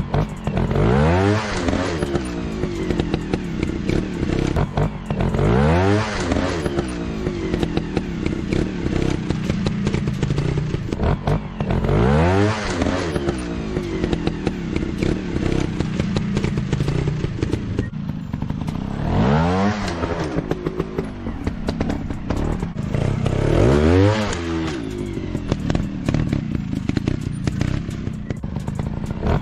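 Dirt-bike engines running, one revving hard and dropping back about every five to six seconds, five times in all, over a steady engine drone.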